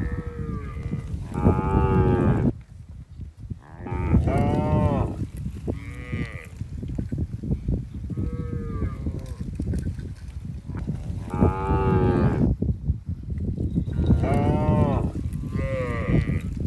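A herd of cattle mooing: one long call after another with short gaps, from several animals at different pitches, each call rising and then falling. Underneath runs a steady low rumble.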